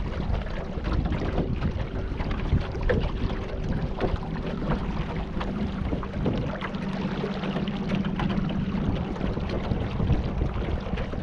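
Water splashing and lapping around a kayak on the river, with wind buffeting the microphone. A steady low hum runs underneath and grows stronger about halfway through.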